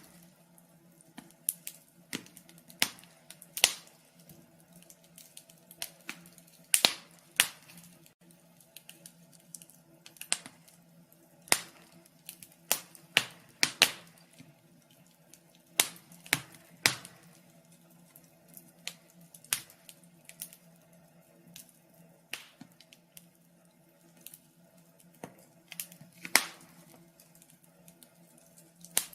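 Wood fire crackling: irregular sharp pops and snaps, several clustered close together at times, over a low steady hum.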